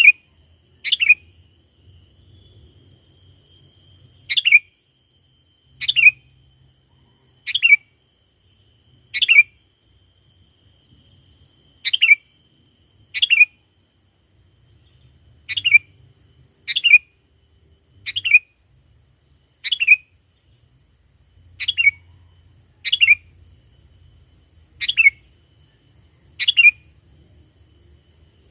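Sooty-headed bulbul calling: short, sharp notes that slide downward, repeated about every second or two, sometimes in quick pairs.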